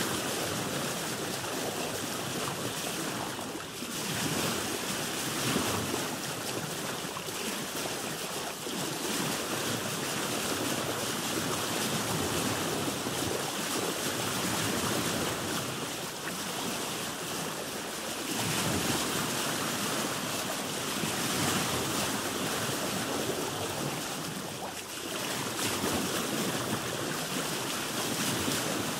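Sea water washing and lapping against a boat's hull, swelling and easing every few seconds, with some wind on the microphone.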